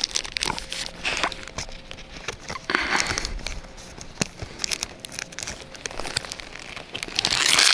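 Foil booster-pack wrappers crinkling and crackling in the hands, with irregular small clicks and rustles.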